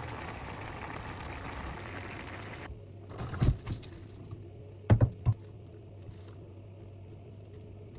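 Steady cooking hiss that cuts off suddenly a little under three seconds in, followed by a few sharp knocks and clinks of kitchen utensils, two and then three close together.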